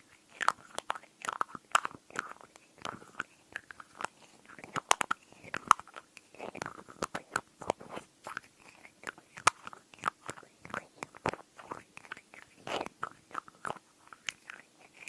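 Glass tapping and lid sounds for ASMR: quick, irregular sharp taps and clicks, several a second, some with a brief glassy ring.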